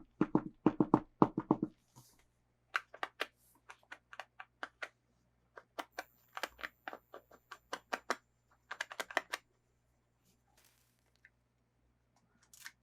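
Runs of quick sharp clicks and taps from hands handling plastic toy packaging and pieces. It starts with a few heavier knocks, then lighter clicking comes in bursts with short pauses and stops a few seconds before the end.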